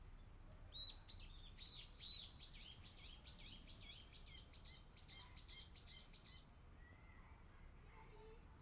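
A small songbird singing a rapid series of repeated, identical high notes, about two or three a second. The series starts about a second in and stops after about five and a half seconds, over a faint low outdoor background.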